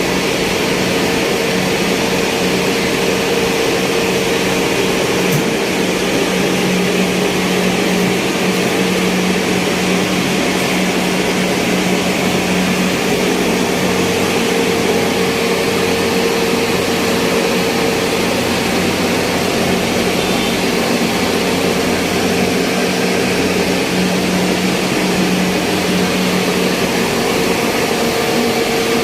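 Mill machinery running steadily: a loud, even mechanical hum with a constant drone that does not change in pitch or level.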